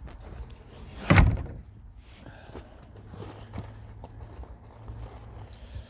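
A single loud thunk about a second in as a body panel of the 1967 Volkswagen Beetle is shut, followed by faint clicks and rustling of handling.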